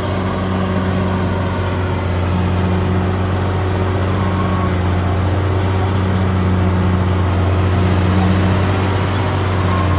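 CAT D6R bulldozer's diesel engine running steadily with a deep, even hum, growing slightly louder toward the end, with faint short high squeaks now and then.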